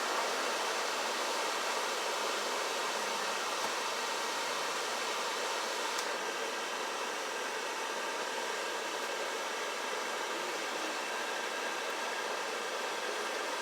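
Automatic car wash air dryer blowers blasting air over the car with a steady, even rush.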